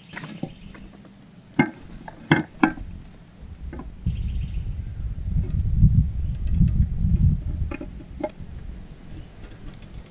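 Scattered metal clicks and knocks as a bolt and the engine are handled against the steel mower deck while the bolt is started into the block, with a low rumble through the middle. Birds chirp in short high notes in the background.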